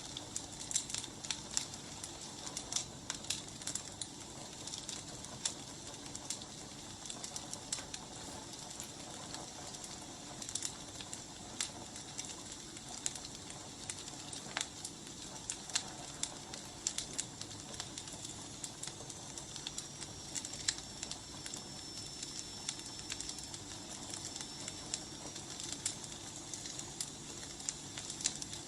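Wood fire burning: a steady hiss with irregular sharp crackles and pops. A faint thin high whistle runs for several seconds in the second half.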